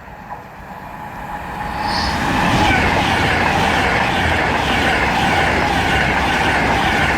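Virgin Class 390 Pendolino electric train passing through at speed: a rush of wheel and air noise that builds over the first two or three seconds, then holds loud and steady with a regular repeating swish about every half-second.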